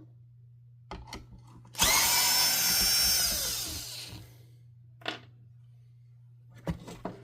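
A power drill spinning for about two seconds, then winding down in pitch as the trigger is let go. A few light clicks and knocks of parts come before and after it.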